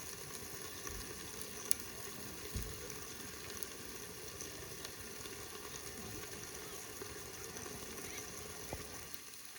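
Chicken neck meat and garlic sizzling steadily in a frying pan, with a few sharp clicks, the loudest about two seconds in.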